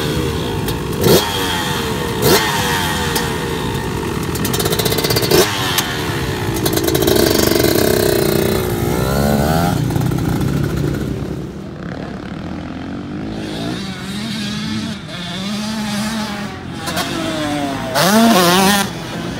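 Dirt bike engines on a motocross track, revving up and down so that the pitch keeps rising and falling. There are a few sharp clicks in the first seconds, and a quick rev rises and falls near the end.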